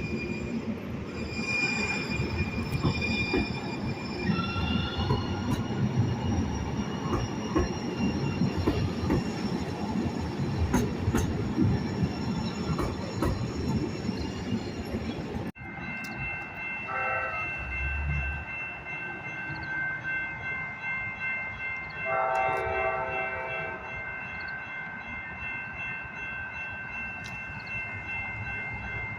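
A passing train, its wheels rumbling on the rails with steady high squeals. After a sudden cut about halfway through, a quieter stretch holds a short train horn note and, a few seconds later, a longer one.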